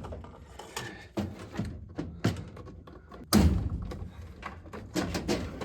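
Furnace parts being handled and taken off: scattered clicks and knocks, with a louder thud a little over three seconds in.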